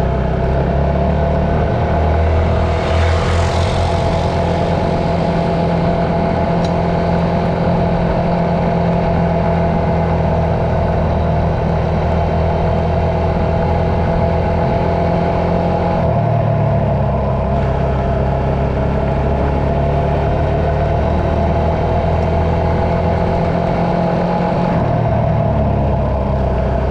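Motor vehicle engine running steadily at a fairly constant speed, its low drone shifting pitch about two-thirds of the way through and again near the end.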